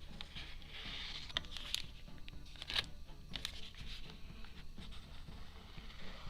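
Paper being handled and pressed down on a journal page: rustling and scraping with light taps and clicks.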